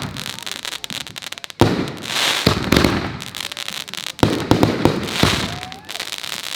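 Consumer firework mortar shells bursting in quick succession, with sharp booms about one and a half and two and a half seconds in and a cluster of four between four and five seconds, and dense crackling in between.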